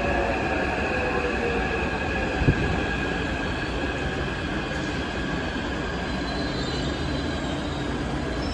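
Taipei Metro train slowing as it pulls into the station: the motor whine falls in pitch early on, over a steady high squeal from the wheels and brakes, with one sharp clack about two and a half seconds in.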